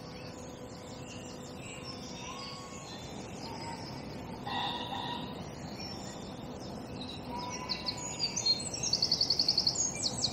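Birds singing in the dawn chorus, scattered high chirps and calls over a steady background. Near the end one bird gives a fast, high trill of about ten notes a second.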